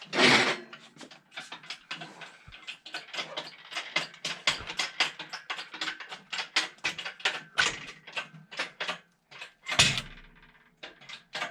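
Engine hoist being worked to take up the weight of an engine on its chain: a quick run of sharp metallic clicks, several a second, with louder clanks at the start and about ten seconds in.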